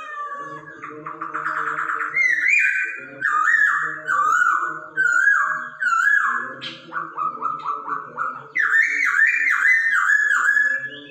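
Poksay Hongkong (laughingthrush) song: loud, rapid series of whistled, slurred notes, repeated in quick phrases, with several steady low tones sounding underneath.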